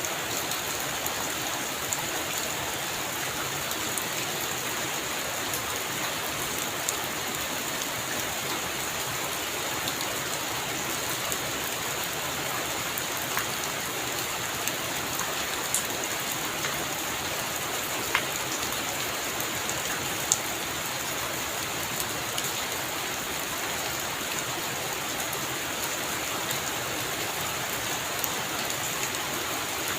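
Heavy rain falling steadily on a roof, with a few sharper drop ticks standing out, the loudest about two-thirds of the way in.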